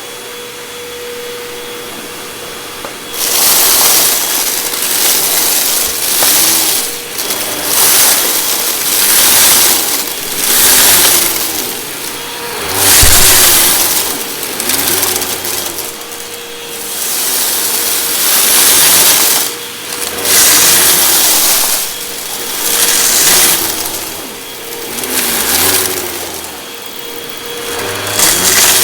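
Hoover WindTunnel 2 Rewind upright vacuum running with a steady hum. From about three seconds in it is pushed back and forth, its sound swelling and falling about every two seconds with each stroke.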